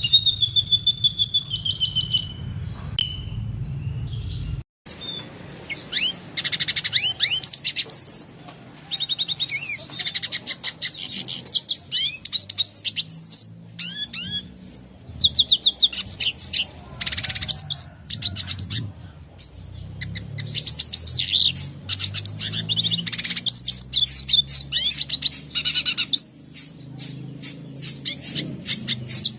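Red siskin singing: bursts of rapid, high twittering and trilled phrases with quick sweeping notes, separated by short pauses. A brief break in the sound comes about five seconds in.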